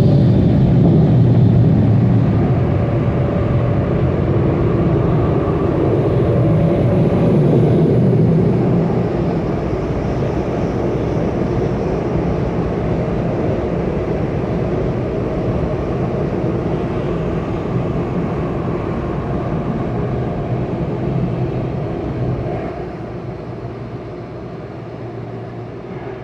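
Steady rushing, droning machine noise heard from inside a car, easing down gradually over the second half.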